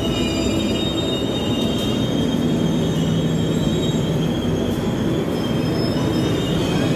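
Steady rumble and hum of trains standing at a station platform, with faint high-pitched whines above it.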